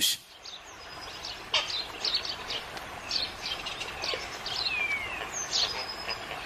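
Assorted small birds chirping and whistling, short high calls scattered throughout, with one falling whistle about four seconds in, over a faint steady outdoor background.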